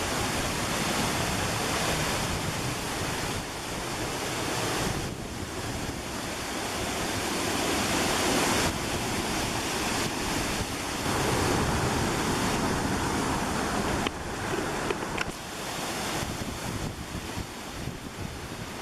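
Waterfall rushing steadily, a dense hiss of falling water that swells and dips a little in loudness.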